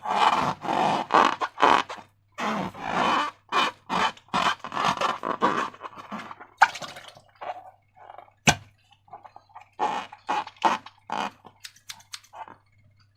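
Slime being squished and worked by hand, with wet, sticky squelches and scrapes coming thick and fast for about six seconds, then more sparsely. There are two sharp clicks partway through, over a steady low hum.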